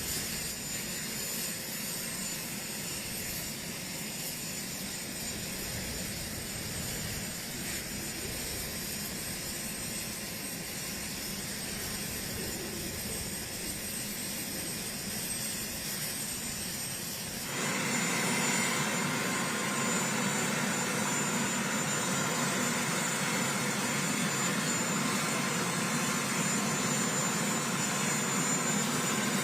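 Helicopter's turbine engines running with a steady high whine over a rushing drone; the sound suddenly becomes louder and fuller about two-thirds of the way through.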